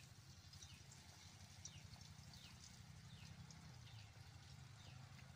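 Near silence: faint outdoor background with a bird repeating a short falling chirp about every three-quarters of a second over a low steady hum.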